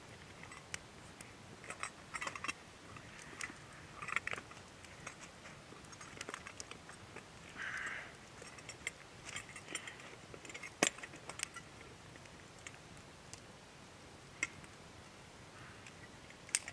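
Scattered light clicks, taps and brief rustles, with one sharper click about eleven seconds in.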